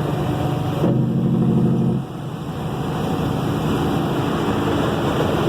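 Caterpillar 3406E diesel engine of a Kenworth W900 with 8-inch straight pipes, running under way. The engine note is louder from about a second in, then drops suddenly at about two seconds and carries on steadily.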